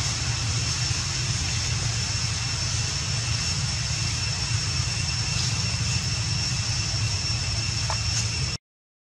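Steady low rumbling background noise with a thin, steady high whine over it, cutting off suddenly just before the end.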